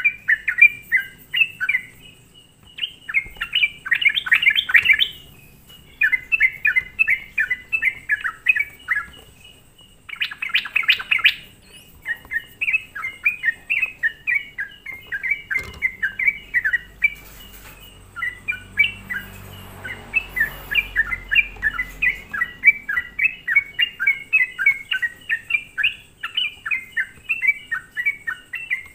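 Yellow-vented bulbul (trucukan) singing: a bubbly, chattering run of quick short notes, repeated phrase after phrase with brief breaks, and two louder, denser bursts of song a few seconds in and about ten seconds in. This is a prolific-singing bird's recording used as a lure to provoke other bulbuls.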